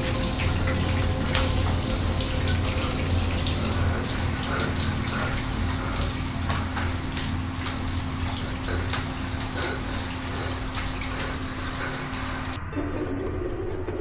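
Shower spray running and splashing onto a person washing, over a steady low hum. The water sound cuts off suddenly near the end.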